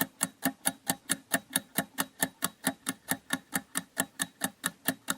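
Ticking clock sound effect of a quiz countdown timer: a steady, even run of sharp ticks, about four to five a second, counting down the time to answer.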